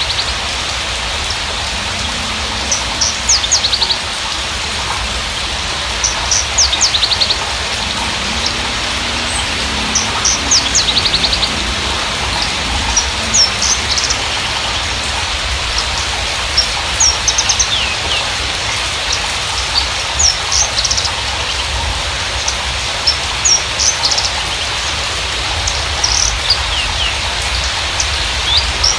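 Javan bushlark (Mirafra javanica parva) singing: short, sharp, high chirps and quick trills in bursts every second or two, over a steady hiss.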